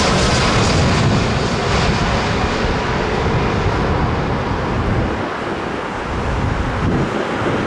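Jet airliner's engine roar, a loud rushing noise that eases off slightly in the second half as the aircraft moves away after passing close by.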